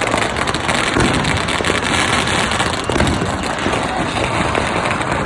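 Many fireworks and firecrackers going off at once: a dense, continuous crackle of small pops with no break.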